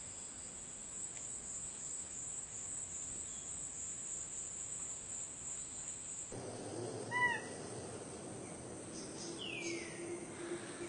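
Steady high-pitched insect drone, cricket- or cicada-like, that cuts off abruptly about six seconds in. A short call then rises and falls in pitch, followed near the end by a wild bird's falling whistled call.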